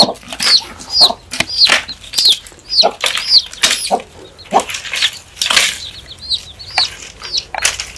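Birds chirping in short, high, repeated calls, about two a second, with sharp rustles and clatters between them.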